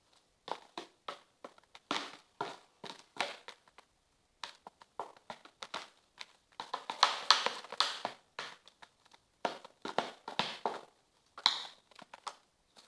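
Spoon stirring and mashing a thick paste of cornstarch and dish detergent in a pot, in irregular short scraping strokes, loudest and densest around the middle.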